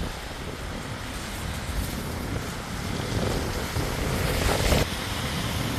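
Strong typhoon wind buffeting the microphone: a steady, rumbling rush that swells and eases, with a brief louder burst about four and a half seconds in.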